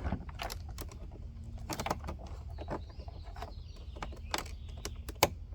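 Scattered light clicks and knocks of plastic electrical connectors and wiring being handled and plugged in at a car door panel, with one sharper click near the end.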